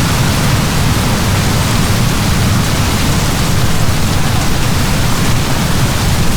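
Heavy rain pouring down steadily, a loud, even hiss with a deep rumble underneath.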